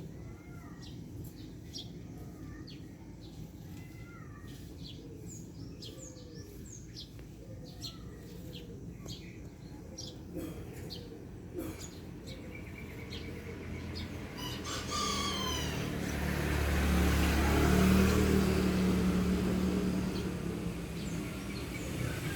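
Birds chirping and calling in short, scattered notes. About two-thirds of the way in, a motor vehicle approaches and passes, growing louder, then fading.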